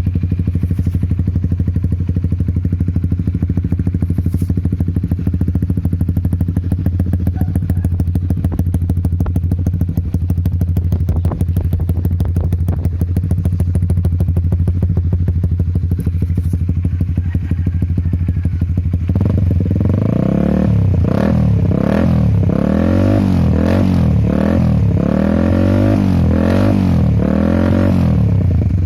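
Honda CB150R's single-cylinder engine breathing through a Creampie CR1 aftermarket exhaust, with a deep, bassy note. It idles steadily, then about two-thirds of the way through is blipped repeatedly, revving up and dropping back about once a second.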